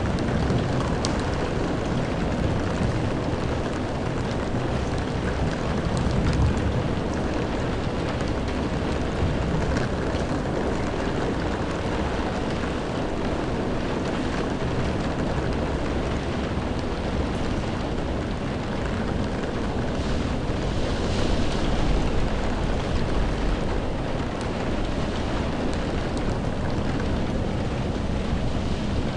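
Steady heavy rainfall, with low rolling rumbles of distant thunder swelling a few times.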